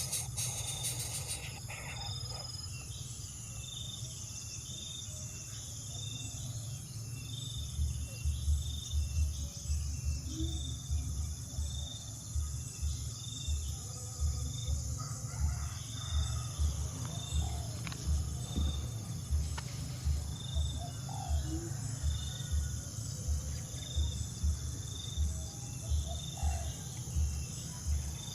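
Crickets and other insects trilling steadily, with a few short, scattered bird calls. From about eight seconds in, a low, regular pulse repeats about twice a second underneath.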